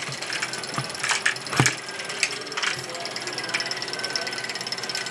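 ROKR wooden marble run's motorized mechanism running: gears ticking steadily, with marbles clicking and clattering along the wooden tracks, one sharp clack about one and a half seconds in.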